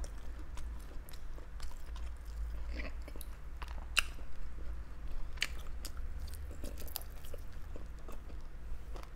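Close-miked chewing and biting of grilled barbecue meat, with small irregular mouth clicks and smacks throughout, the loudest about 4 s in, over a low steady hum.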